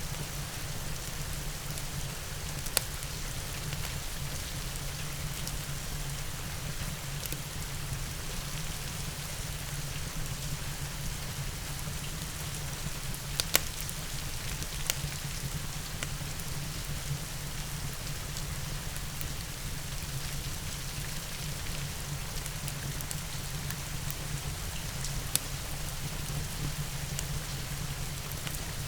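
Steady rain, with a wood fire giving a few sharp crackling pops, the loudest about halfway through.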